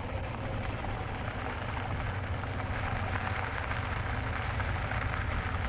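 Steady wind rush and rumble on the microphone of a moving e-bike ride, with tyre and road noise mixed in.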